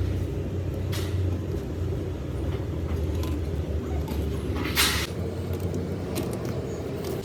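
A steady low engine hum runs throughout. Just before the five-second mark there is a short hiss of air, with a few light knocks.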